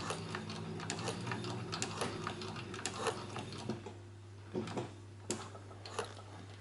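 Cowboy CB 6900 sewing machine stitching through a thick strap: a motor hum with rapid ticking of the needle and feed. It stops a little past halfway, and a few separate clicks follow.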